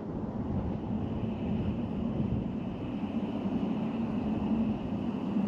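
Portable butane camp stove burner running at a high flame: a steady rushing roar, mixed with wind blowing on the microphone.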